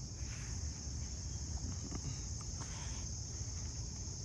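Steady, high-pitched chorus of insects in the garden, with a low rumble underneath and a few faint rustles.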